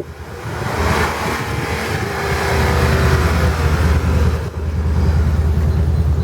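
Off-road 4x4 truck engine running steadily, driving on a wet clay trail, with a broad rushing noise over the first four seconds or so.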